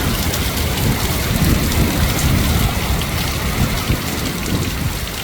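Heavy wind-driven rain pouring down in a storm, with gusting wind rumbling on the microphone in irregular surges.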